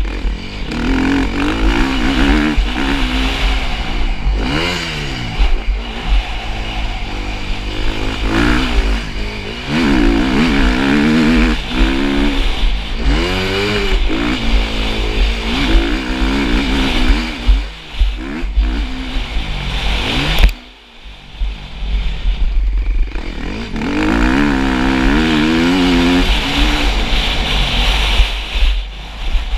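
Motocross bike engine revving hard and easing off again and again, its pitch climbing and dropping every second or two as it works through the gears. The sound cuts out briefly about twenty-one seconds in, then picks up again.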